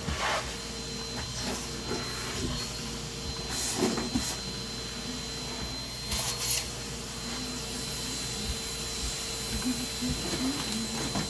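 A vacuum cleaner running steadily with a constant whine, with a few brief crackles as it picks up debris.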